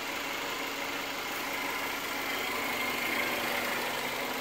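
Freshly rebuilt Subaru EJ boxer flat-four, EJ18 heads on an EJ20 short block, idling steadily and running smoothly.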